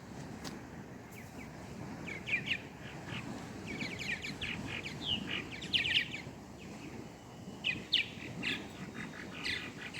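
Small birds chirping, many short quick chirps in overlapping clusters that start about two seconds in, over a steady low background rush.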